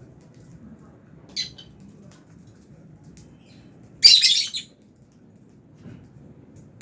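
Lovebirds calling: a short high chirp about a second in, then a loud, harsh screech lasting about half a second near the four-second mark, over a faint low background rumble.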